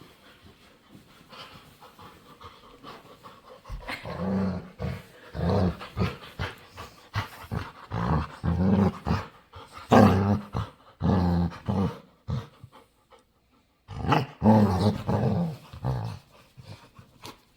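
Pet dog making low, grumbling growl-like noises in a string of short bouts, beginning about four seconds in, after a few seconds of soft breathing.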